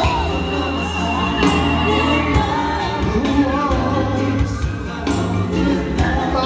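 Live pop concert music with a heavy, steady bass and singing over it, picked up by a camera in the audience.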